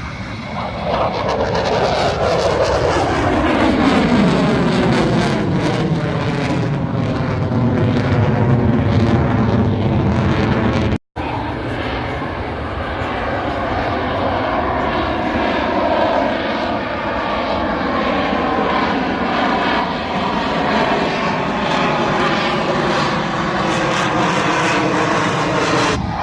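Military jet aircraft flying past in an air-show pass, a loud, continuous jet roar with a whooshing sweep that falls in pitch over the first few seconds. The sound cuts out for a moment about eleven seconds in, then the jet noise goes on with further slow sweeps.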